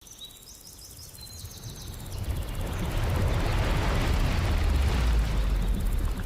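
Wind buffeting the microphone outdoors, building over the first few seconds into a loud, steady low rumble with a high hiss. A few faint high chirps sound near the start.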